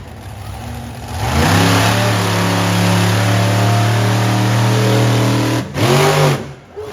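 Monster truck engine revving: low for about a second, then rising sharply and held at high revs for about four seconds, before dropping, blipping once more and falling away near the end.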